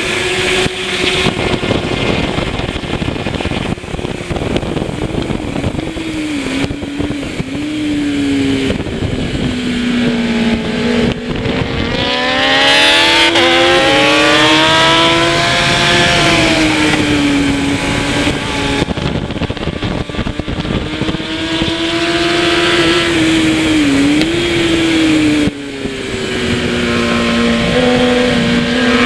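Kawasaki ZX-10R superbike's inline-four engine at full race pace, its note climbing as it accelerates and dropping sharply at shifts and braking, several times over. The longest climb comes about halfway through. A steady rush of noise runs under the engine.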